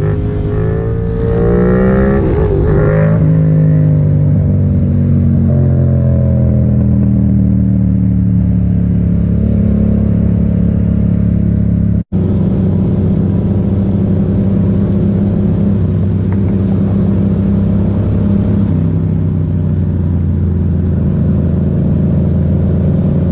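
Motorcycle engine accelerating hard, its pitch rising in steps through several gear changes, then running at steady high revs. The sound cuts out for an instant about halfway through.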